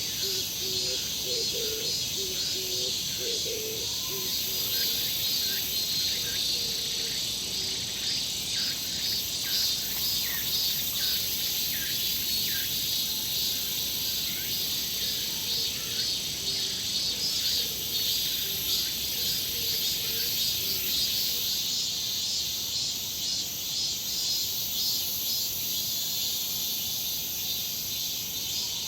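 Forest insects chirring steadily in a dense high-pitched chorus, with scattered short bird chirps over it.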